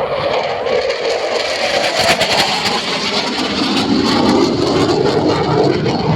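Jet engine noise of a JAS 39 Gripen's single afterburning turbofan as the fighter flies its display, a loud rushing noise with a crackle about two seconds in that settles to a deeper tone in the second half.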